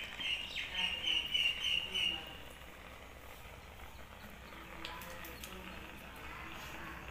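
A bird chirping in a quick run of high, repeated notes for about two seconds, then stopping, leaving a low steady background.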